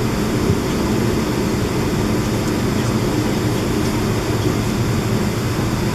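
Steady low engine and cabin noise of a jet airliner, heard from inside the passenger cabin.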